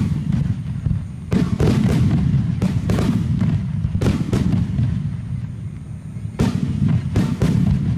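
Starmine fireworks display: aerial shells bursting in rapid clusters of sharp booms over a continuous low rumble, with a short lull about five seconds in before another cluster.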